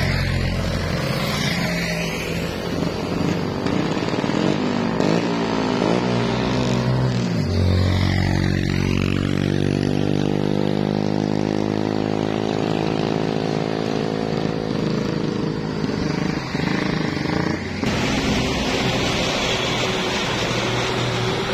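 Heavy truck engines running on a steep hairpin grade, their pitch rising and falling as they work through the bend. The sound changes abruptly near the end.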